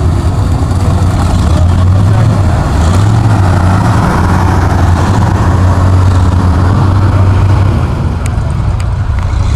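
Modified 4x4 mud truck's engine running loud and steady, with slight rises and dips in pitch as it is blipped at low revs.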